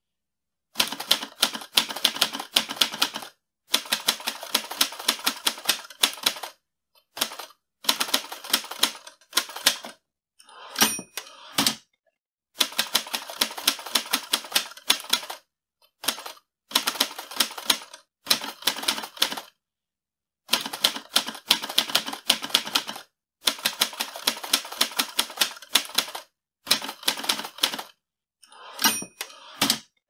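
Manual typewriter typing in quick runs of keystrokes, each run one to three seconds long with short pauses between. Twice, about eleven seconds in and again near the end, the margin bell rings and the carriage is returned.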